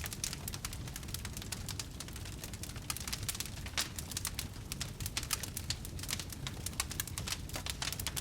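Wood fire crackling in a fireplace: a steady run of sharp pops and snaps, several a second, over a low steady rumble.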